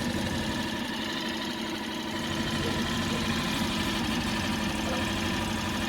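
Mercury 4 hp outboard motor idling steadily, a fast, even run of firing pulses.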